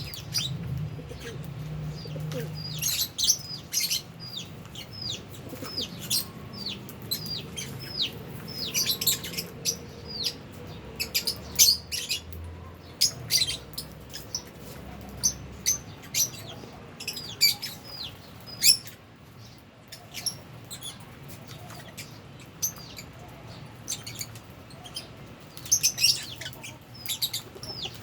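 A colony of Fisher's and albino lovebirds chirping: many short, high, downward-sliding calls, rapid and overlapping, with no let-up.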